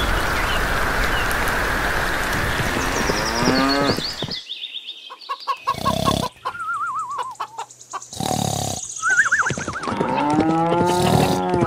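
Steady hiss of rain with a cow lowing as the rain ends, about four seconds in. Then a run of separate farm-animal calls: a warbling bird-like call, a short burst, and another long cow moo near the end.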